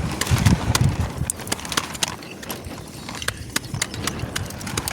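A series of light, irregular clicks and knocks, several a second, like hard objects tapping together.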